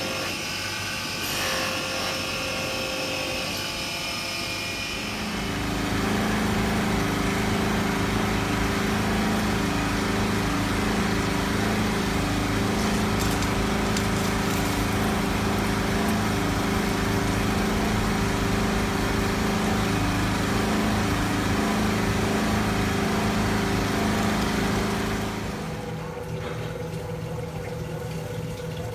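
A motor-driven machine starts about five seconds in, runs at a steady pitch for about twenty seconds, then stops, leaving a quieter, different steady hum.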